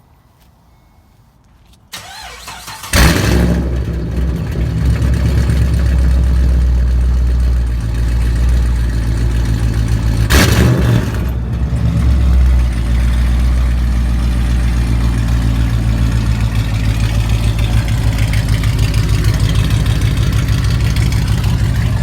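A 2012 Chevrolet Caprice PPV's 6.0-litre V8 is cranked over about two seconds in, catches a second later, and runs loud and lumpy through long-tube headers with no mufflers (open true dual exhaust). It is blipped briefly about ten seconds in and again soon after, then settles back to idle.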